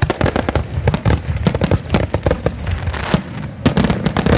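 Fireworks display: a dense, rapid run of bangs and crackling reports, with deeper booms underneath and a thicker cluster of bangs near the end.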